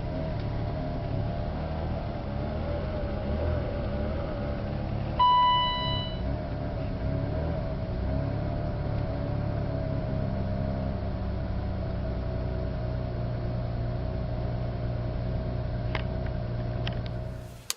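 Car engine idling after a cold start in severe frost, with a steady wavering whine over the low engine note. A single electronic beep sounds for about a second, about five seconds in.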